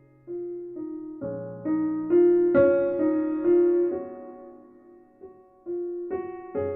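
Background music: a slow, gentle piano melody, single notes struck and left to fade over held low bass notes.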